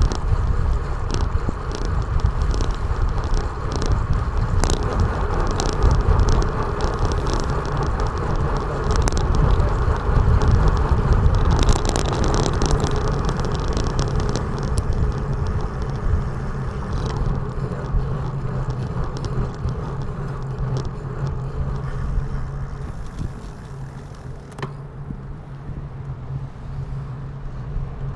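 Wind and road noise picked up by an action camera while riding: a steady low rumble with scattered clicks, easing off near the end.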